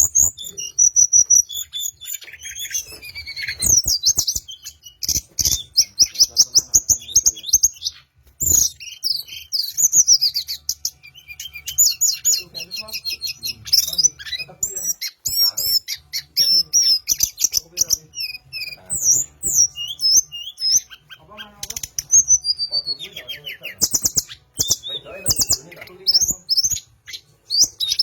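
A wild sulingan, a small songbird, singing in quick high whistled phrases and fast trills, one after another with only short pauses.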